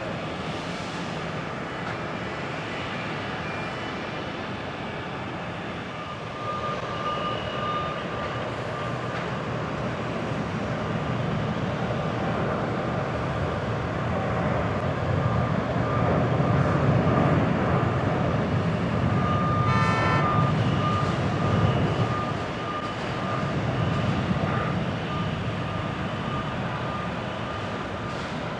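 Airliner jet engines at takeoff thrust, the noise swelling over several seconds to a peak and then easing off as the aircraft passes. A thin high beeping comes and goes through it.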